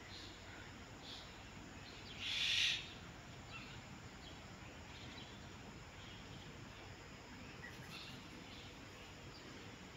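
Birds calling: one louder call lasting about half a second comes about two seconds in, with faint short calls scattered through the rest over a low steady background.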